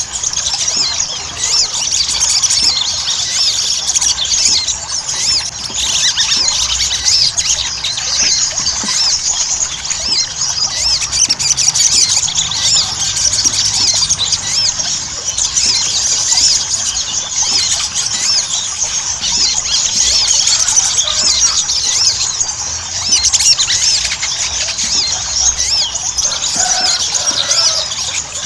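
Sogon (sogok ontong, a spiderhunter) singing a fast, unbroken stream of high-pitched chirps and short squeaky glides. This is a 'pancingan' recording of a bird in full song, used to provoke other sogon into singing.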